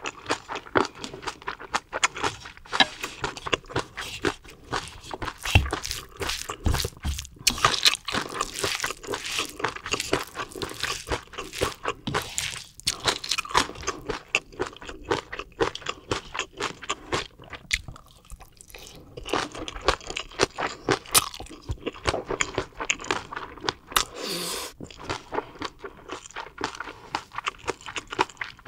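A person chewing crunchy food close to the microphone: a steady run of wet crunches and bites, with a couple of short lulls.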